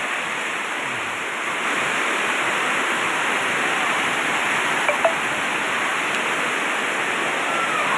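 Heavy tropical rain pouring down steadily, a dense even hiss.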